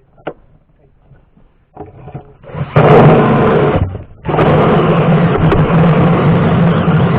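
Power drill with a blunt metal-cutting bit grinding through two layers of the van's sheet metal at a spot weld. It starts loud about two and a half seconds in, stops for a moment, then runs on steadily.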